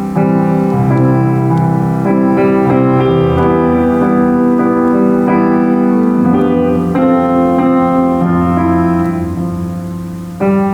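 Solo piano playing a slow worship piece in full, held chords, a new chord struck every second or so. Near the end one chord fades away before the next is struck.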